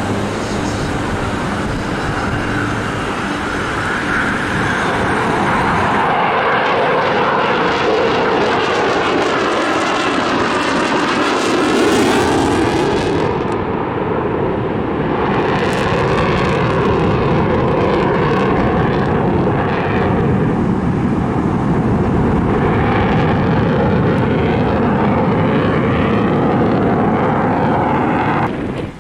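A fixed-wing airplane flying past, its engine noise loud and continuous, with a sweeping, phasing shift about ten to thirteen seconds in as it passes closest.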